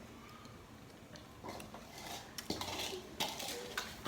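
A few light, separate clinks and knocks of utensils against dishes, scattered through the latter part.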